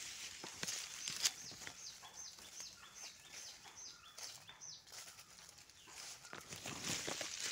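A bird calling a run of short, high, falling notes, about three a second for a few seconds, over footsteps crunching and brushing through dry leaf litter and undergrowth, the crunching louder near the end.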